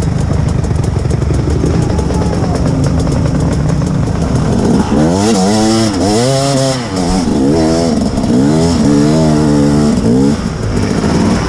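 Two-stroke KTM 250 EXC dirt bike engine running, then revved up and down in several quick surges from about halfway through, on slippery mud.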